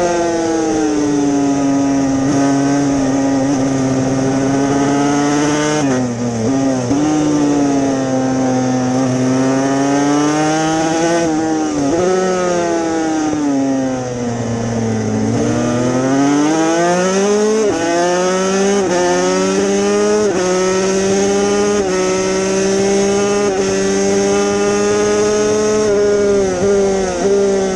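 Yamaha TZ250 two-stroke road-racing motorcycle engine at racing speed, heard from on board. It holds a high, steady note on the straights. The pitch falls twice, briefly about six seconds in and for longer past midway, as it slows for corners, then rises again as it accelerates out. Short breaks in the note mark gear changes.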